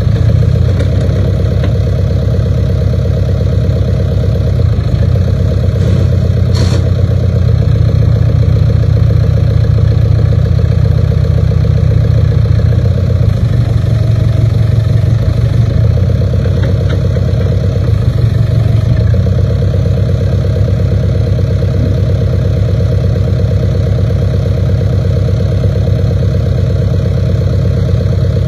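Case 580K backhoe loader's four-cylinder diesel engine running steadily at a constant speed, with one brief click about six and a half seconds in.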